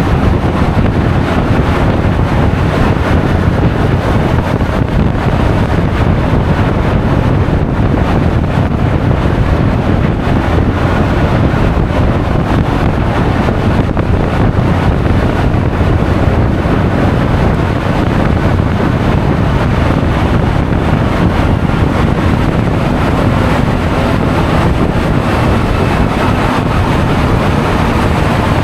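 Steady wind rushing over an action camera's microphone while riding a Honda Forza 350 scooter, with the scooter's engine and road noise blended into the low rumble.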